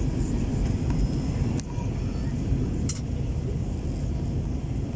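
Steady low roar of an Airbus A321 airliner in flight, engine and airflow noise as heard inside the cabin, with a couple of faint clicks.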